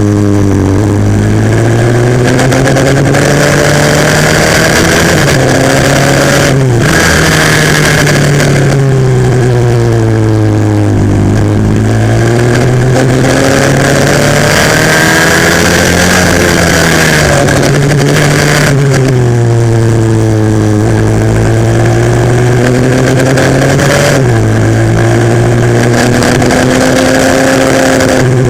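A 140cc pit bike's single-cylinder four-stroke engine, heard onboard while it is ridden hard: the revs climb and fall continuously through corners, with sudden pitch drops at gear changes three times.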